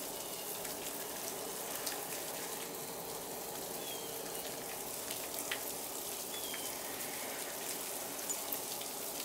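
Steady hiss and patter of sleet (ice pellets) falling on the yard and trees, with many scattered small ticks. Two faint short chirps come about four and six and a half seconds in.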